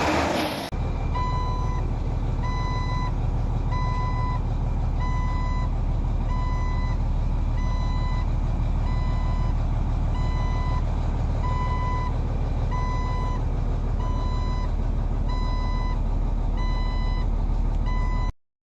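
A heavy truck's reversing alarm beeping at an even pace, about once every second and a half, over the low, steady running of its engine. Both cut off suddenly near the end.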